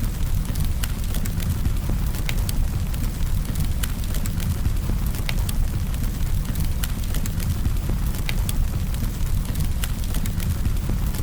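Wood campfire burning: a steady low rumble with scattered sharp crackles and pops.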